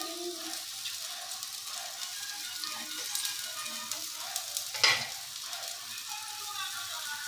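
Hung-curd kebab patties sizzling and crackling in a little oil on a hot non-stick pan as more patties are laid on. A single sharp knock comes about five seconds in.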